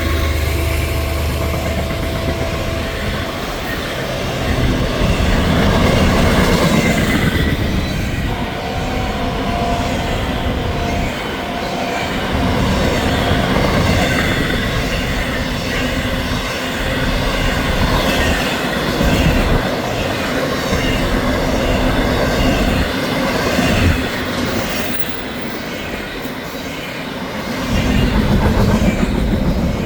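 Freight train rolling past: trailer-on-flatcar intermodal cars with a steady rumble and wheels clacking over rail joints, with thin wheel squeals coming and going. The low rumble is heaviest in the first few seconds.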